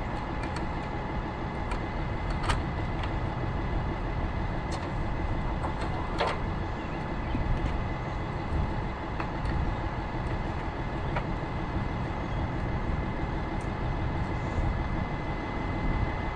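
Truck engine idling steadily, with a few light clicks and knocks scattered through it.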